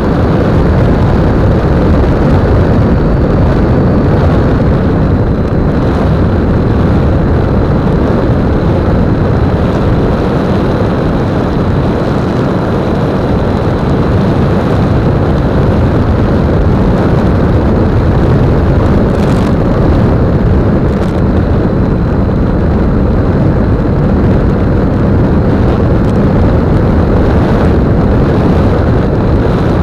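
E-flite Apprentice 15e RC airplane in flight, heard from its onboard keychain camera: loud, steady wind rush and propeller noise over the microphone, with a faint high whine from the electric motor that dips slightly in pitch about four seconds in.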